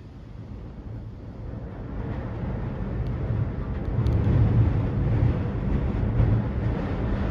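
Strong gusting wind rumbling on the microphone, swelling louder a few seconds in.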